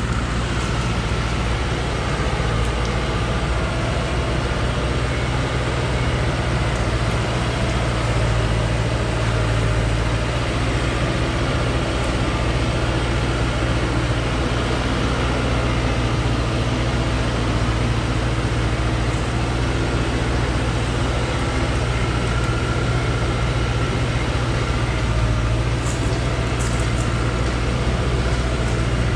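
Timber truck's engine running steadily at an even pitch, with no revving or gear changes.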